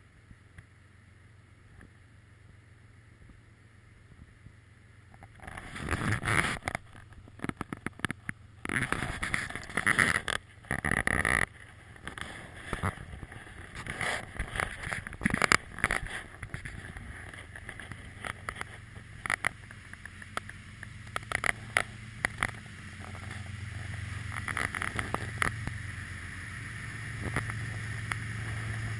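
Freight train starting to roll: a quiet start, then a series of sharp metallic clanks and bangs about five seconds in, giving way to a steady rolling noise with a low rumble that grows toward the end.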